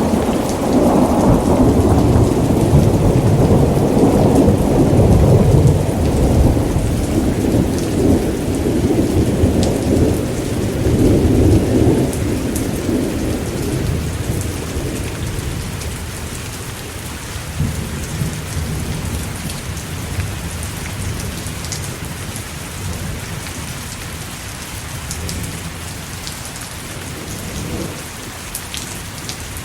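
Thunderstorm: a long, loud rumble of thunder that fades away about halfway through, over steady heavy rain with drops ticking on hard surfaces.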